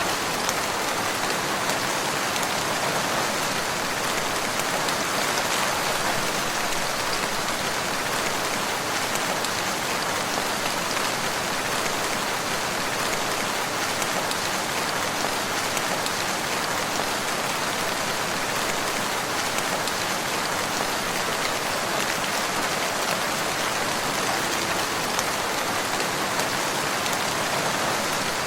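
Steady, even rainfall with fine patter of raindrops hitting a surface.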